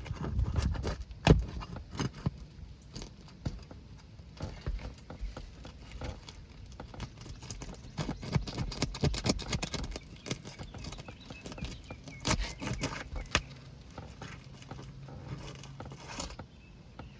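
Irregular clicks, taps and scrapes of a hand tool working against asphalt roof shingles as they are pried loose.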